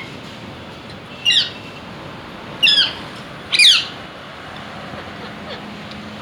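Ringneck parrot giving three short, shrill squawks, each sweeping down in pitch.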